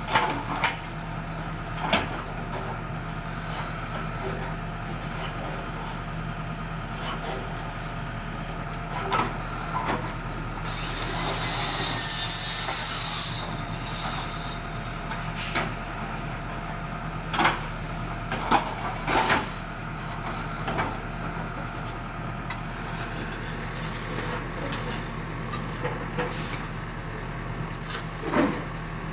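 Backhoe loader's diesel engine running steadily, with sharp knocks every few seconds and a hiss lasting about three seconds near the middle.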